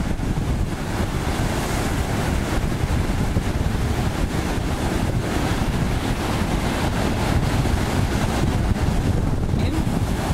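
Wind buffeting the microphone and water rushing past a jet ski under way, a steady loud rushing noise with no clear engine note.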